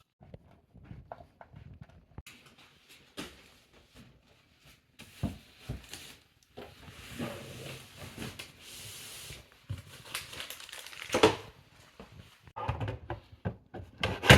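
Screws being driven to fix the centrepiece to a TV stand, with handling of the stand parts: scattered small clicks and knocks, a stretch of scraping and rubbing in the middle, and one louder knock about three-quarters of the way through.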